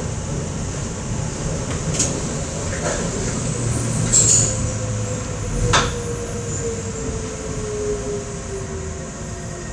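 Docklands Light Railway train running and slowing, heard from on board. There are a few sharp clacks, a brief high wheel squeal about four seconds in, and a motor whine that falls slowly in pitch over the second half as the train slows.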